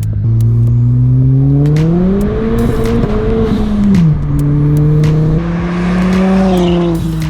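Turbocharged 1.6 EcoBoost four-cylinder of a Ford Fiesta ST under hard acceleration: engine pitch climbs steadily for about three and a half seconds, drops sharply at a gear change about four seconds in, then pulls on at a roughly steady pitch in the next gear before falling again near the end.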